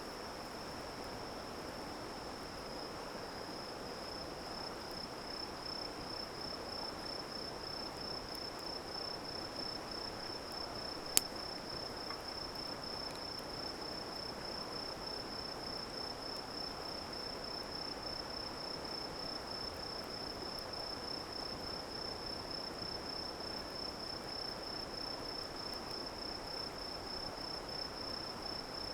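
A cricket trilling steadily on one high, rapidly pulsed note, over a soft steady hiss, with a single sharp click about eleven seconds in.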